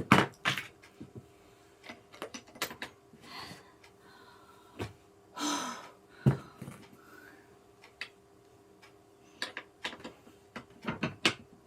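Gaming chair armrest being fastened by hand: scattered clicks and knocks of hardware and parts, with one sharper knock about six seconds in and a breathy exhale just before it. A faint steady hum sits underneath.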